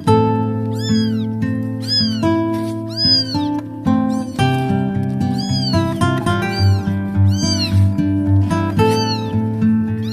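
Kittens meowing over and over in high calls that rise and fall in pitch, about one a second, over background instrumental music.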